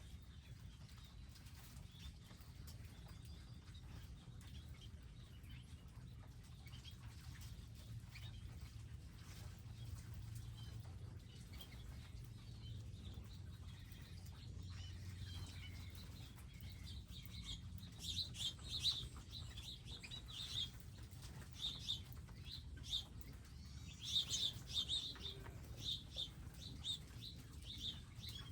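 Small birds chirping in short, quick high notes, starting about two-thirds of the way through and growing busier and louder toward the end, over a faint low steady hum.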